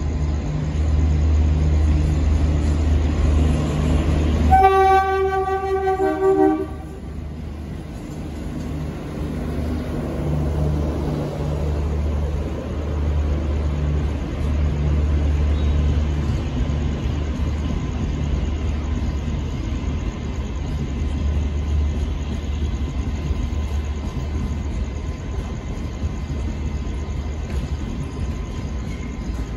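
Express passenger train arriving, its coaches rolling past with a steady low rumble. About four and a half seconds in, a train horn sounds one blast of about two seconds.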